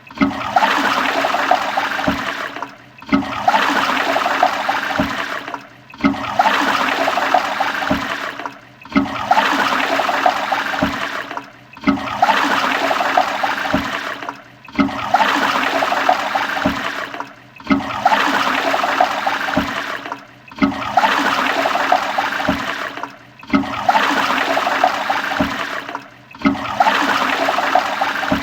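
Toilet flushing: rushing, gurgling water. The same stretch of about three seconds repeats over and over, each time dropping away briefly before the rush starts again.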